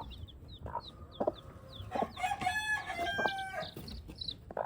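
Baby chicks peeping in short high notes and a hen clucking low, with a rooster crowing once about two seconds in, the loudest sound.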